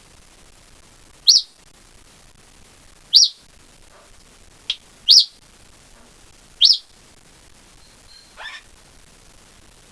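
Congo African grey parrot giving four loud, short, sharp whistles spaced about two seconds apart, then a softer, rougher call near the end.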